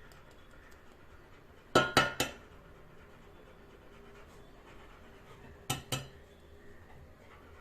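An egg being knocked against the rim of a dish to crack it, with a clinking ring: three quick knocks about two seconds in, then two more nearly four seconds later, as the egg proves hard to break.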